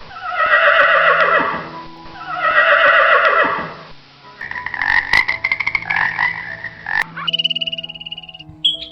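Animal calls over background music: two long, loud calls that fall in pitch, then a rapid rattling trill, followed by short high chirps near the end.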